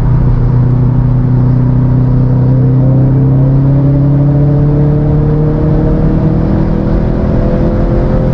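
Subaru WRX STI's turbocharged flat-four engine pulling steadily under load in gear, its pitch rising slowly and evenly as the car gathers speed.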